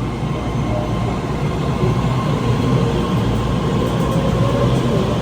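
Taiwan Railway train running, a steady heavy rumble of wheels and machinery with a faint whine that rises slowly in pitch over the last couple of seconds.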